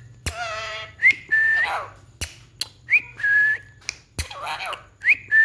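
A repeated whistle comes about every two seconds, each one a quick upward flick followed by a steady held note. Sharp clicks fall between the whistles, and a short pitched, wavering call comes early on.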